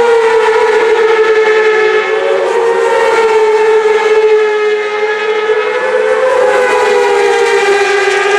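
Several racing superbike engines running at high revs with a sustained high-pitched note that wavers slightly up and down as the bikes go by.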